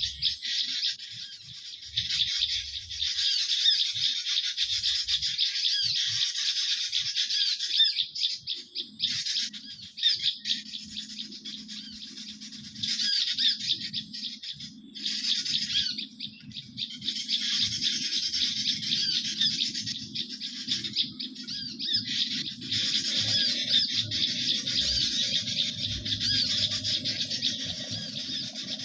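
A bird-trapping lure call: a dense chorus of small garden birds chirping and twittering rapidly, in long stretches broken by a few short pauses.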